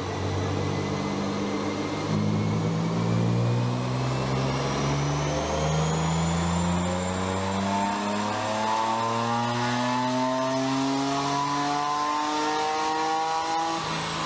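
Car engine on a chassis dyno, run under load through a long pull: its pitch holds low for the first few seconds, then climbs smoothly and steadily as the revs rise through the gear.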